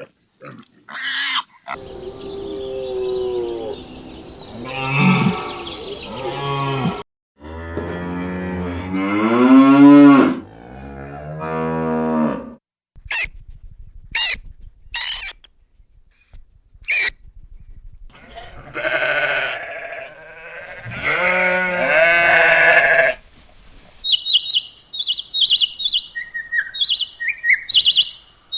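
Cattle mooing: three long, drawn-out moos, the middle one the loudest, with a few sharp clicks between them. Short high chirps come near the end.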